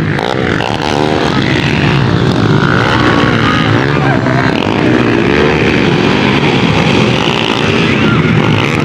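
Motocross bikes racing, their engines running hard and revving, the pitch rising and falling.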